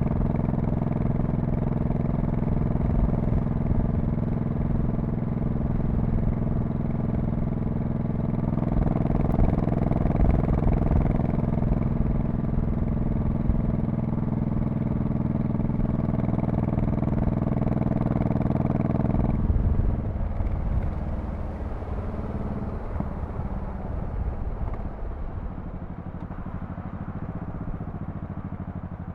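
2002 Honda Shadow Spirit VT1100C's V-twin exhaust, running at a steady cruising note. About two-thirds of the way through the steady note drops away to a quieter, lower, uneven rumble.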